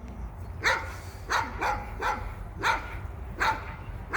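A dog barking repeatedly, about seven short barks at a fairly even pace.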